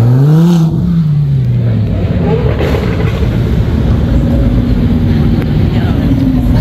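Lamborghini Huracán Spyder's V10 revving up, peaking about half a second in, then easing off as it drives past, followed by the steady low rumble of an Audi R8's V10 rolling by and pulling away.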